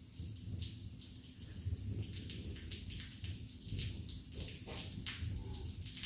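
Heavy rain falling during a thunderstorm: a steady hiss of rain with many sharp drop splashes close by, over a low uneven rumble.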